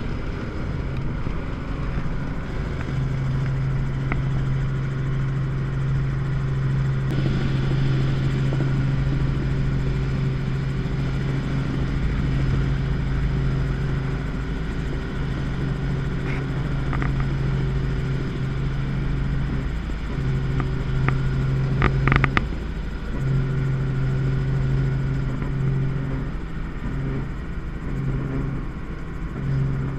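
Helicopter in flight, heard from inside the cabin: a steady engine and rotor drone with a low hum. A few brief clicks come about 22 seconds in.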